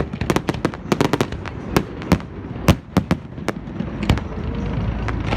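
Fireworks display: a quick, irregular string of sharp bangs and pops that thins out after about three and a half seconds, over a steady low rumble.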